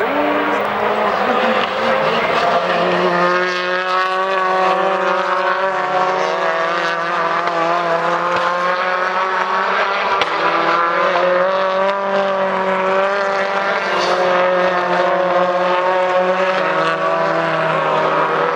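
British Touring Car race car engines running at a steady, held pitch that wavers slightly; the note settles about two or three seconds in.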